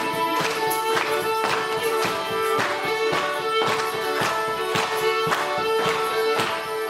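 Live traditional folk instrumental music: sustained pitched instruments over a steady drone note, with a regular percussive beat of about two strikes a second.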